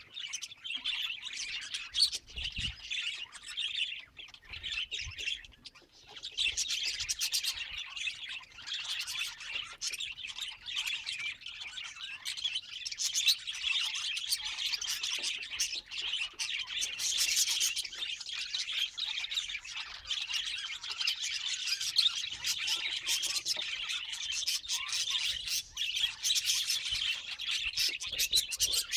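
Pet budgies (budgerigars) chattering and warbling without a break, with scratchy squawks and chirps mixed in.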